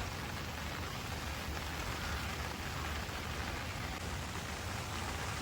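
Steady rain falling, an even hiss with no distinct drops or knocks.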